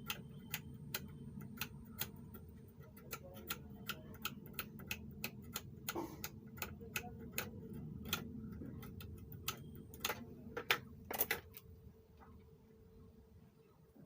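Rapid, regular mechanical clicking, about three clicks a second, over a low steady hum. The clicking stops about eleven seconds in.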